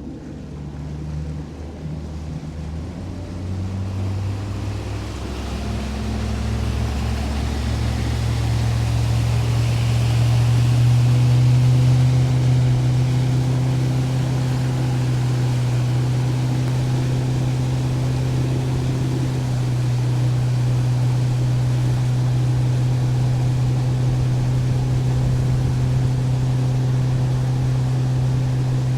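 Boat outboard motor speeding up over the first ten seconds or so, then running steadily at cruising speed, over a rushing hiss.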